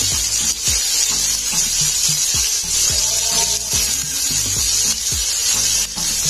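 Sliced chilies frying in hot oil in a wok, giving a steady sizzle, heard under background music with a deep, repeating bass beat.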